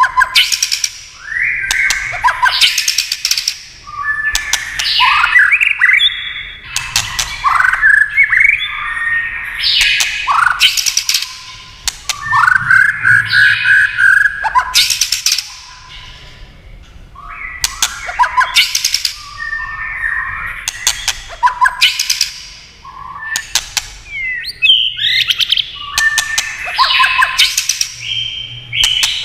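White-rumped shama singing loud, varied whistled phrases, with runs of sharp clicking 'tack' calls between them.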